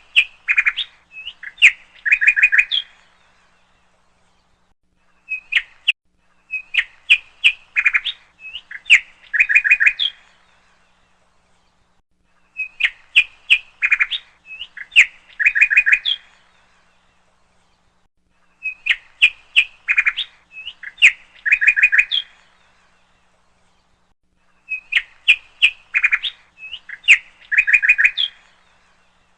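A songbird chirping in bursts of quick, high chirps that end in short rapid runs of notes. The same phrase repeats about every six seconds, with short silences between.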